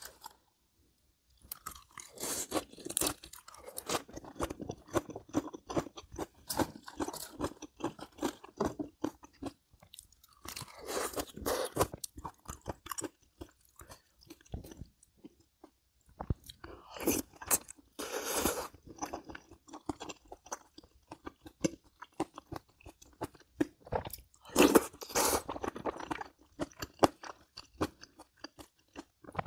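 A person chewing and crunching food: a dense run of small crunches and mouth clicks, with louder stretches of crunching several times.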